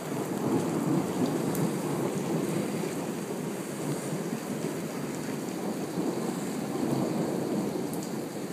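Rain falling steadily on a street and pavement.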